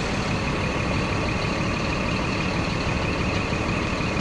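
Old Scania truck's diesel engine running steadily, heard from the cab, with a steady high-pitched tone over it.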